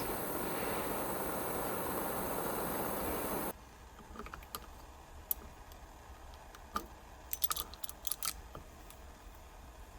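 A steady rushing hiss that stops abruptly after about three and a half seconds, followed by scattered light clicks and taps.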